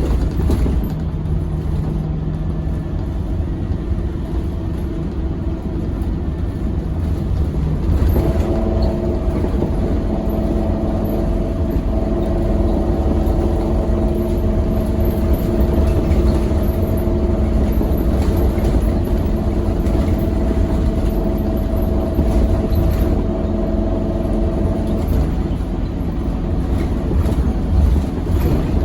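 Scania K270UB6 Omnilink bus's five-cylinder 9-litre diesel engine running under way, with heavy low rumble. About eight seconds in, the engine note steps up to a higher pitch and then holds steady.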